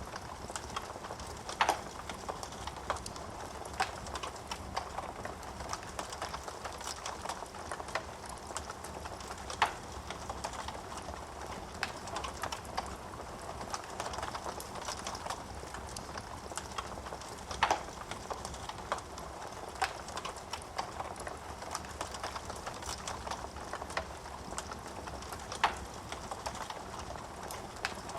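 Wood fire crackling in a fireplace: a steady soft hiss of flames dotted with frequent small crackles from the burning wood, and four louder pops spread through it.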